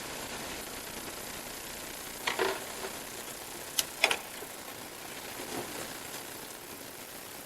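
A few sharp metallic clinks and knocks of hand tools and parts being worked on an engine during a repair, over a steady background hiss. The loudest clink is a close pair about four seconds in.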